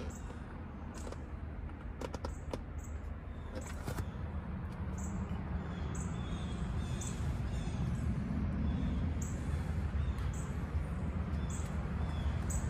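Birds chirping outside, short high calls repeating about every second, over a low rumble that grows louder, with a few clicks about two seconds in.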